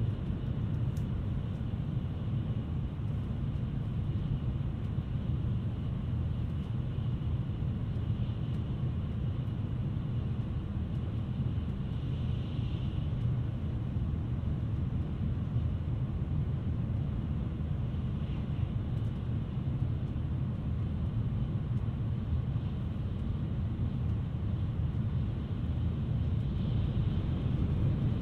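Tokaido Shinkansen train running at speed, heard from inside the passenger cabin: a steady low rumble of wheels on rail with an even airy hiss above it.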